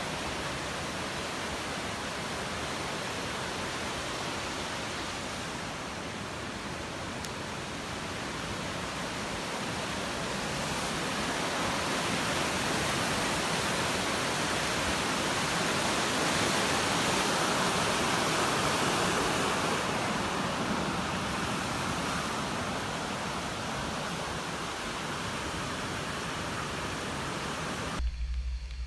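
Steady rush of falling water, swelling louder in the middle and stopping abruptly near the end.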